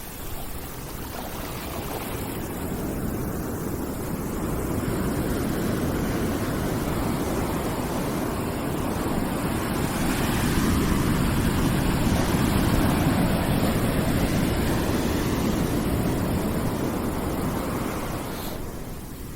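Calming background noise: a steady rushing hiss, strongest in the low range, that slowly builds and then eases off near the end like a long swell.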